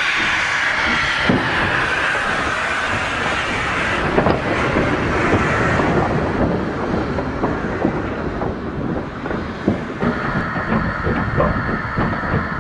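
A train running on the track, its wheels clicking over the rail joints.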